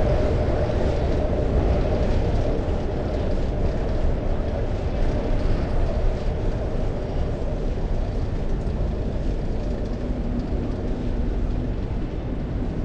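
Steady rush of wind and road noise while riding a bicycle, heard on a chest-mounted action camera, with most of the sound low and booming.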